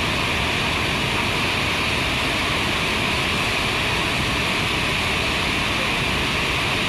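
Berkri waterfall pouring: a steady, unbroken rush of falling water.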